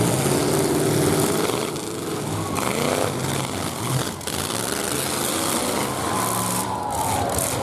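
Several demolition-derby trucks' engines revving hard together, their pitch rising and falling as the drivers get on and off the throttle.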